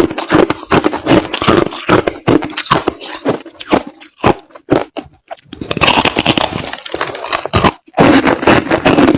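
Crushed ice being chewed: a dense run of crunches that thins to a few separate crackles around the middle, then turns dense again.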